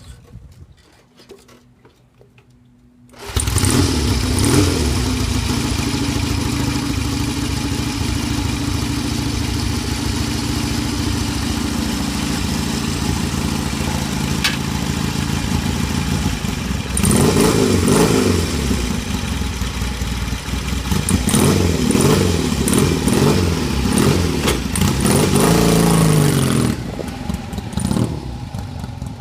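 1958 Indian Tomahawk motorcycle engine being kick-started, catching about three seconds in and settling to a steady idle. It is then revved up and down in two spells before dropping back to idle near the end.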